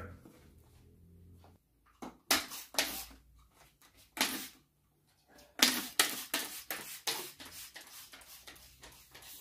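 Irregular short knocks and rustles of household objects being handled, in clusters, the busiest stretch a little past the middle.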